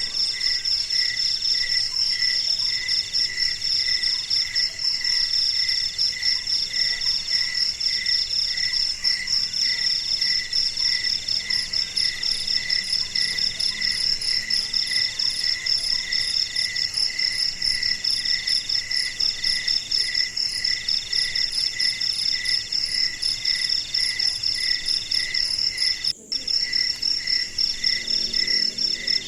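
Night chorus of crickets and other insects, several kinds chirping at once at different pitches in fast, steady pulses, some in long trills with short pauses. The whole chorus cuts out for a moment near the end.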